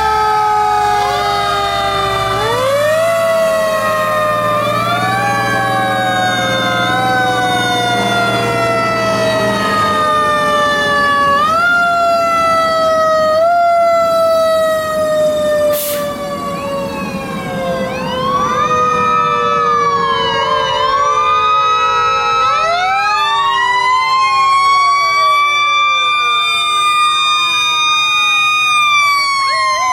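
Several fire truck sirens sounding at once, their rising and falling wails overlapping. A truck engine rumbles underneath for the first third. About three-quarters of the way in, one siren winds up slowly to a long high tone.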